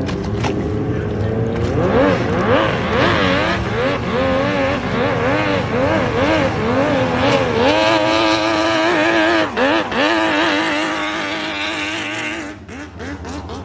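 Racing boat's Suzuki LJ50 two-stroke engine revving hard: the revs rise and fall quickly several times, then hold high and steady for about four seconds with a brief dip, and drop off near the end.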